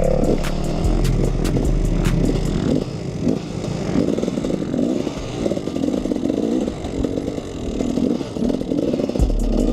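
KTM 300 EXC two-stroke enduro bike engine running, its revs rising and falling in pulses, with scattered knocks and clatter.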